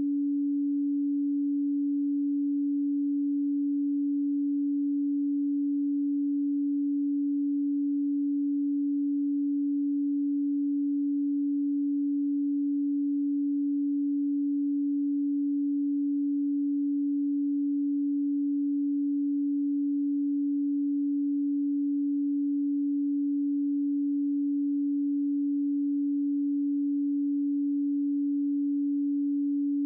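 A pure 285 Hz sine tone held steady at one pitch, with no overtones and no change in level.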